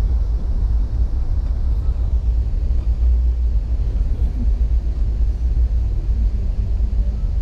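Moving passenger train: a steady low rumble from the wheels and running gear, heard from inside the car.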